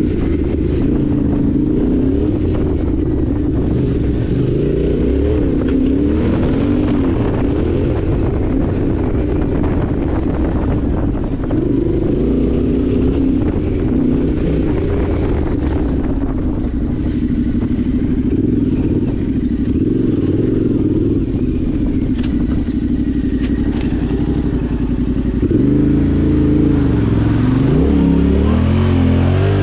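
Yamaha Ténéré 700's parallel-twin engine running steadily under way. Near the end the engine note swings up and down as the revs change.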